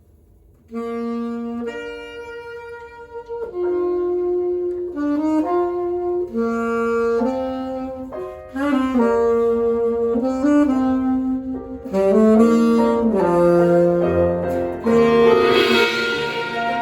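Alto saxophone playing a slow melody of long held notes, entering about a second in after a near-silent pause, with a second sustained line moving alongside it from the keyboard. A cymbal wash swells near the end.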